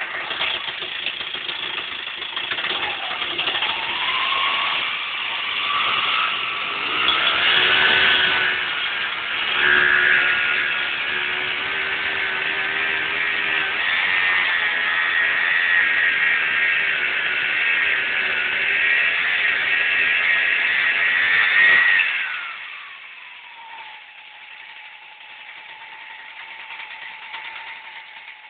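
Two-stroke Vyatka scooter engine driving a homemade winch: it revs up over the first few seconds and runs at high, fairly steady revs. About three-quarters of the way through, the revs fall away and it settles to a much quieter idle.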